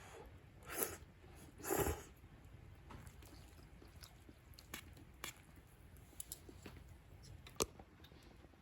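Someone eating a bowl of miso-stewed udon: two short bites or slurps about a second apart near the start, then scattered faint chewing clicks, one sharper click near the end.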